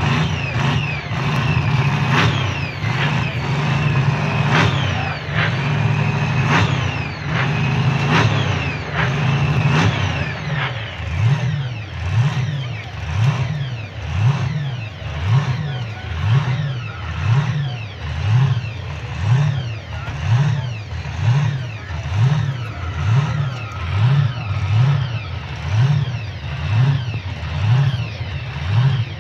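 Pontiac Firebird drag car's engine running loud and steady, then from about ten seconds in being revved in a regular rhythm of about one blip a second, each rising and falling.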